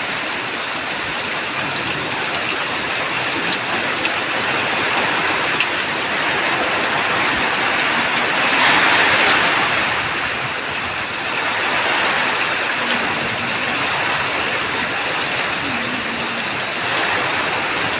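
Heavy rain falling steadily, a dense even hiss that swells for about a second around the middle.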